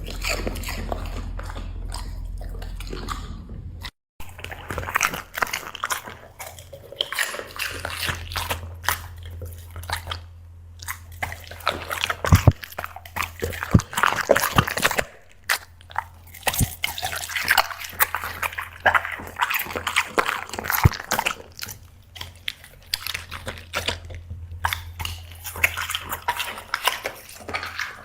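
A black Labrador chewing and crunching dried seafood snacks, with irregular crunches and wet smacking throughout. There is a brief break about four seconds in, and a steady low hum underneath.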